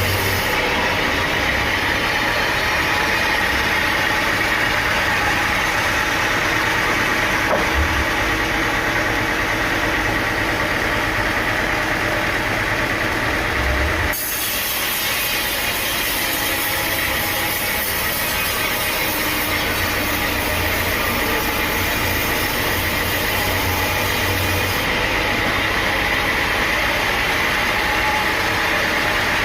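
Sawmill machinery running with a steady mechanical drone. The sound changes abruptly about halfway through.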